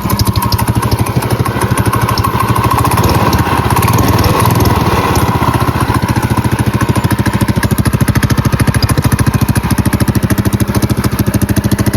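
Predator 212cc single-cylinder four-stroke go-kart engine with a stage one kit, running steadily with an even, rapid firing beat. Freshly rejetted, it may be running too lean, though the owner is unsure.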